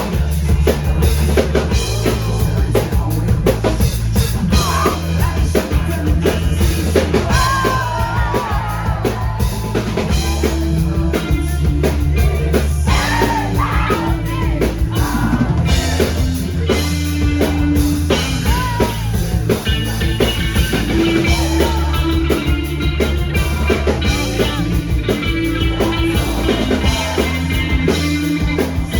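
Rock band playing live: drum kit, bass and guitars, with a sung vocal line.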